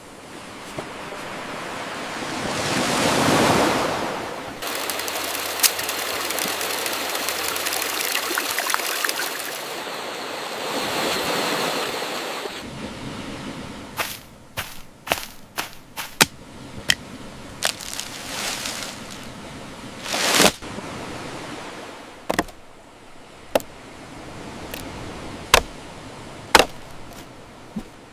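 A steady rushing wash of noise like surf or running water, swelling and fading. From about halfway through it gives way to a string of sharp, irregular knocks and cracks.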